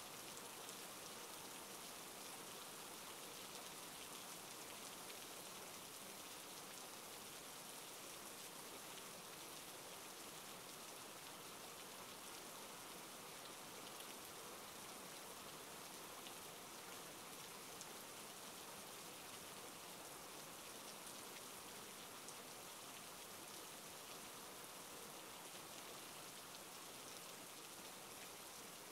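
Steady rain falling, a faint, even hiss of many drops with no break or change.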